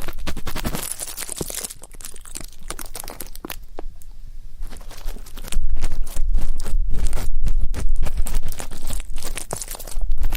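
Close-up ear-cleaning sounds: an ear pick scratching and crackling against a microphone ear, a busy run of rapid, irregular clicks. It goes quieter in the middle and gets louder and fuller again from about halfway.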